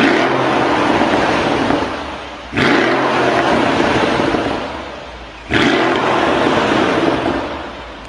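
A car engine revved hard three times, each rev rising sharply and then falling away over about two seconds.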